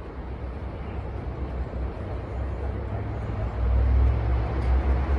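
Low, steady rumble of a vehicle engine running, growing louder about three and a half seconds in.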